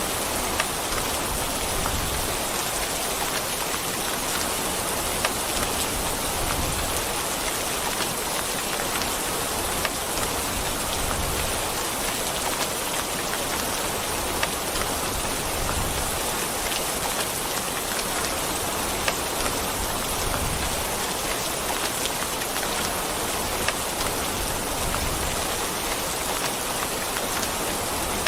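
Steady rain falling, an even hiss with many scattered sharp ticks of single drops.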